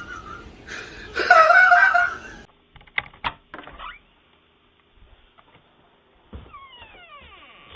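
A person laughing loudly for about a second, cut off abruptly. A few sharp clicks follow, and near the end comes a long falling pitched glide.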